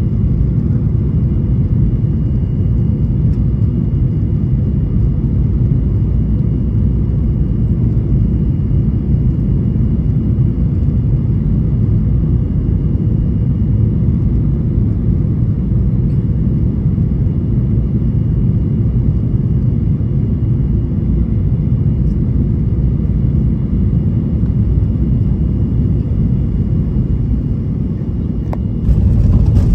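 Steady low rumble of a Boeing 737-800's cabin noise heard from inside the aircraft, with a thin steady high whine over it. About a second before the end the rumble dips briefly and then comes back louder.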